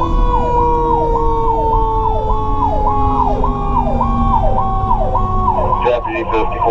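Fire truck sirens sounding with the truck's engine rumbling underneath. An electronic siren cycles up and down about one and a half times a second, over the steady tone of a mechanical Q siren slowly winding down in pitch. Near the end the electronic siren switches to a faster, choppier pattern.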